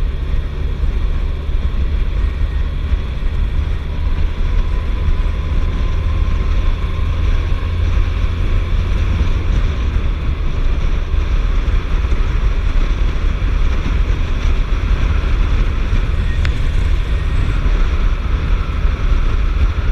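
Steady low wind rumble on the microphone of a Suzuki GSF1250S Bandit motorcycle under way, with the bike's running underneath.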